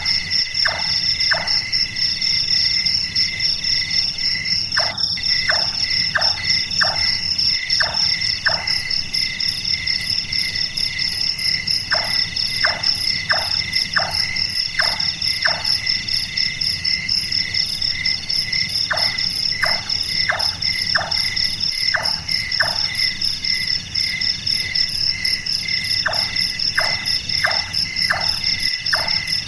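Large-tailed nightjar calling: runs of about six short knocking notes, about two a second, like a carpenter hammering, with each run repeated every seven seconds or so. Under it a steady chorus of crickets and other night insects.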